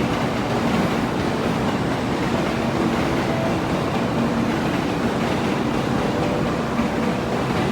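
Kyushu Shinkansen 800 series train departing the station: a steady rush and rumble of the moving train, with a faint hum.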